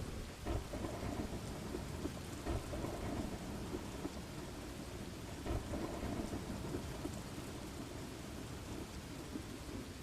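Thunderstorm: steady rain with low rolling thunder, swelling louder about half a second in, at two and a half seconds and again at five and a half seconds.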